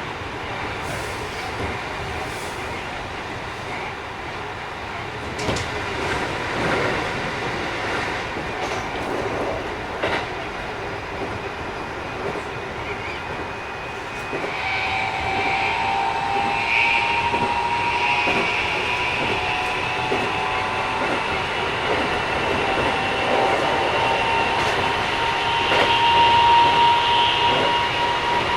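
Keikyu 1000 series electric train running, heard on board: rumbling rolling noise with a few knocks over rail joints. About halfway a whine from the Mitsubishi IGBT inverter and traction motors comes in as steady tones, rising slightly as the sound grows louder. The uploader finds this train a little noisier than other sets.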